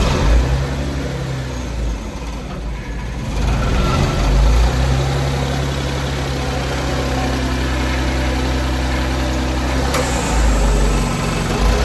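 2001 Suzuki Carry kei truck's small three-cylinder engine running, settling into a steady idle about four seconds in.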